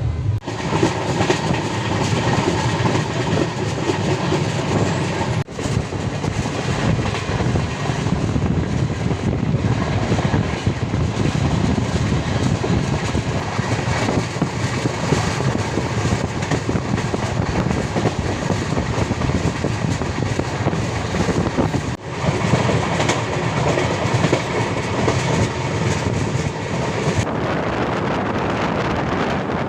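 Coimbatore Shatabdi Express running at speed: a steady rumble of wheels on rails with rushing noise. Two very short breaks in the sound come about five and a half seconds in and near 22 seconds.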